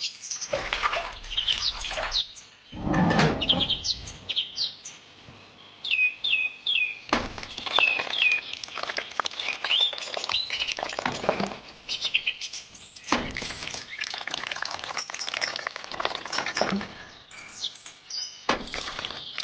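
Small birds chirping in short repeated calls, over intermittent knocks and clatter, the loudest about 3 seconds in.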